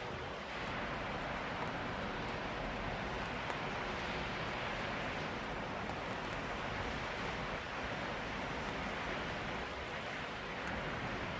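Steady rain falling, a continuous even hiss with faint scattered ticks of drops.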